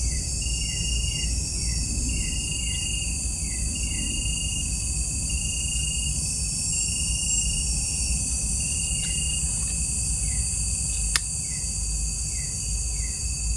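Night-time chorus of insects such as crickets: a steady high-pitched shrill, with one short chirp repeating about once a second and a quicker run of short falling chirps beneath it. A low rumble runs under the chorus, and a single sharp click comes about eleven seconds in.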